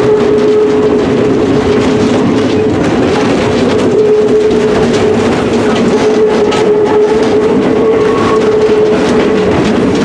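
Diesel-hauled excursion train running, heard from aboard: a loud steady rolling rumble with a held droning tone throughout.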